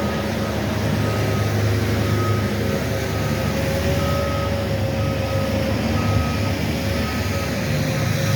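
Backup alarm of a snow-clearing machine beeping about once a second over the steady running of its engine.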